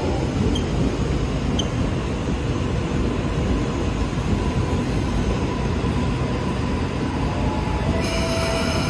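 Electric suburban train giving a steady, even running noise and hum. A steady tone comes in near the end.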